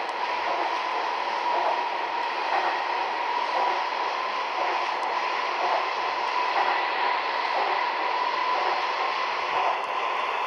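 Seoul Metro Line 2 subway train running between stations, heard inside the car: a steady rumble of wheels on rail with a thin, steady high whine over it.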